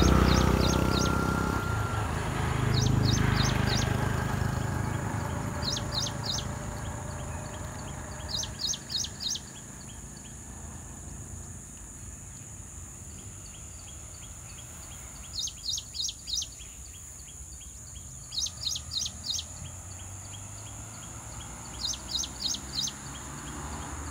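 A small songbird repeating a short phrase of four or five quick, high, falling notes, about seven times with gaps of a few seconds between. A steady high hiss runs underneath, and a low rumble fills the first few seconds.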